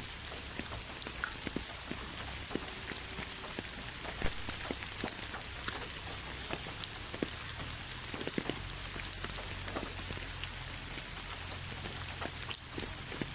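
Steady rain falling, with a constant hiss and many separate drops tapping on a surface at an irregular pace; one sharper drop stands out near the end.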